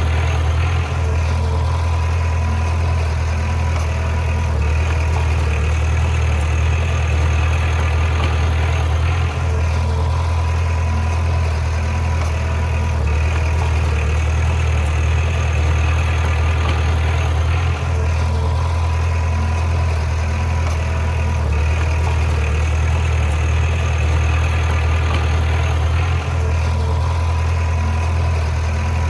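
Bulldozer's diesel engine running steadily under work, its sound shifting in a repeating cycle about every eight to nine seconds.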